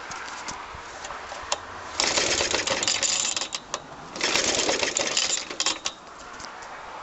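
Suffolk Super Colt mower engine being cranked to start: two bursts of rapid clattering, each about a second and a half long, with a short gap between them.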